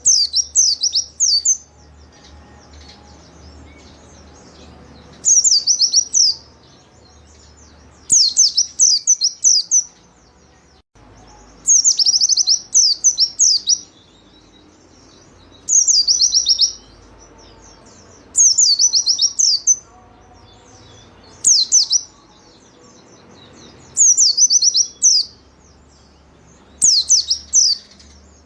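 White-eye (pleci) singing: short bursts of quick, high, down-slurred chirps, each phrase about a second long, repeated every two to three seconds.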